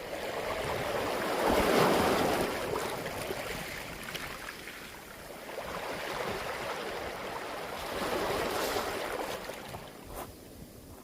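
Waves washing up a beach of smooth round pebbles, each surge and backwash rolling the stones with a hiss and scattered clicking rattle. The biggest surge comes about 2 seconds in, with smaller ones around the middle and near 8 seconds, then it eases off.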